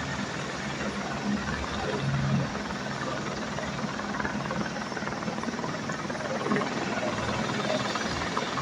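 Helicopter running, a steady, dense noise of rotor and engine with a low hum underneath.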